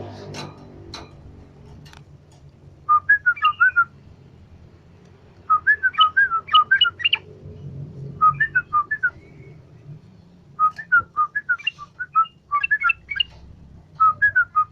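Sooty-headed bulbul (trucukan) singing in rapid bursts of short, repeated whistled notes, about five phrases separated by brief pauses.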